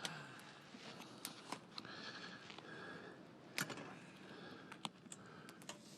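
Faint, scattered small clicks and taps over a quiet hiss, the sharpest one about three and a half seconds in.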